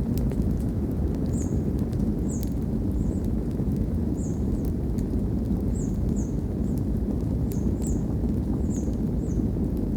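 Campfire burning, crackling with scattered sharp pops over a steady low rumble, with short high chirps about once a second.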